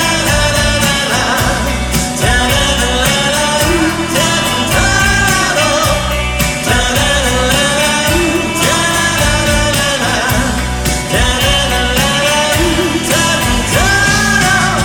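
Live rock band playing the outro of a song, loud and steady, with a sung melody over a regular beat.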